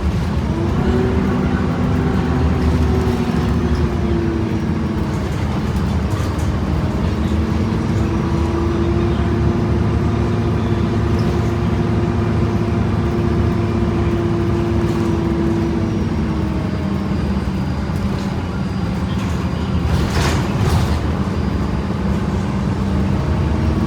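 Diesel drivetrain of a 2011 Gillig BRT transit bus heard from inside, the Voith automatic transmission whining in steady tones over the engine's low drone. The whine shifts pitch about five seconds in and again after about sixteen seconds, as the bus changes speed and gear. A few short rattles come near the end.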